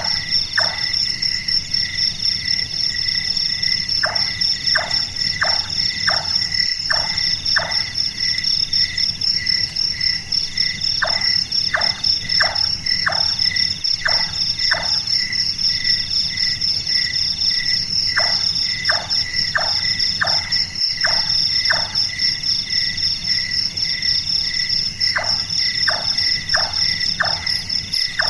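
Large-tailed nightjar calling: series of five to seven short knocking 'chonk' notes, about two a second, repeated four times with pauses of a few seconds between, a call likened to someone hammering at carpentry. Behind it, a steady night chorus of insects.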